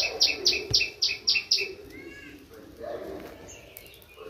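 A bird calling a quick run of short, high chirps, about four a second, that stops a little under two seconds in.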